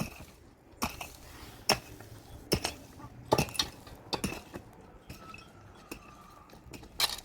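Sharp clinks and knocks of hard earthenware or dishes being handled and set against each other, roughly one a second, some coming in quick pairs.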